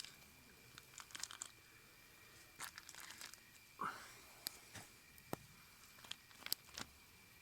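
Faint, irregular crackles and clicks, with one short squeak about four seconds in.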